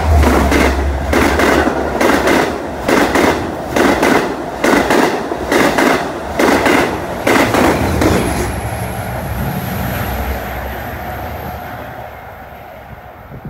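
A Long Island Rail Road train of C3 bilevel coaches passes close by. Its wheels clack over rail joints about twice a second, often in quick pairs as each truck's axles cross, over a low rumble. After about eight seconds the clatter dies away into a fading rumble with a faint high ring from the rails.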